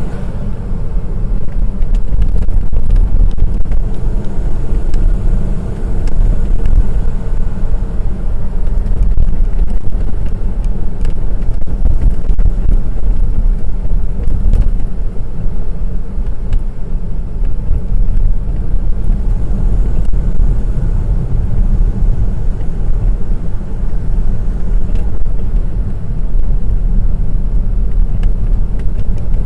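Honda S660's 658 cc turbocharged three-cylinder engine and road noise as the car is driven, a steady low rumble.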